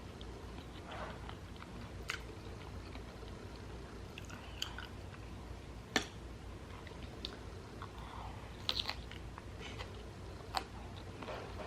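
Close-up chewing and mouth sounds of someone eating a baked chicken dish with broccoli, soft and wet with a few small crunches, broken by a few sharp clicks.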